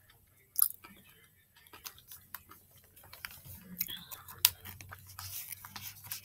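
Close-miked chewing of milk chocolate with almonds: crunching clicks and wet mouth sounds, with one sharp crack about half a second in and denser crackling in the second half.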